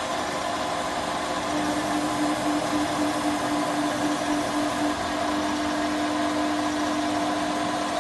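A 2500 x 1250 mm CNC gantry router running with a steady mechanical hum. Its one clear tone pulses about three times a second from about a second and a half in, then holds steady from about five seconds in.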